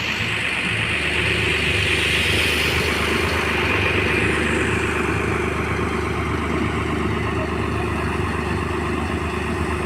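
A vehicle engine running steadily at idle, a constant low hum.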